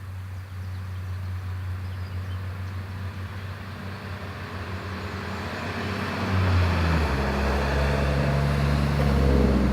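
A motor vehicle's engine running and growing steadily louder as it approaches, with its low hum changing tone about two-thirds of the way through.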